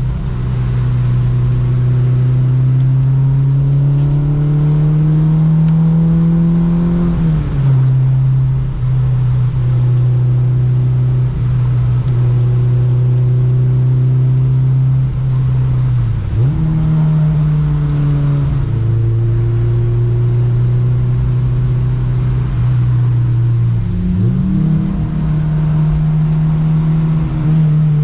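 Honda Civic engine under load on track. Its pitch climbs slowly, then drops sharply with a gear change, and holds fairly steady with two more brief dips and recoveries later, over a steady rushing noise.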